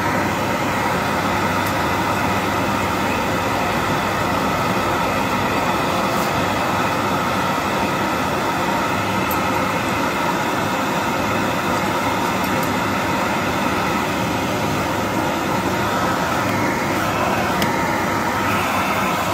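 Household vacuum cleaner running steadily: a continuous motor hum with a rush of air, unbroken throughout.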